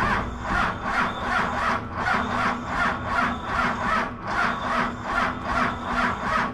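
Starter cranking a cold Dodge Cummins inline-six diesel over slowly, with its compression strokes pulsing about three times a second over a steady starter whine. The engine never fires: at 15 °F, with no grid heater and weak batteries, it turns over without catching.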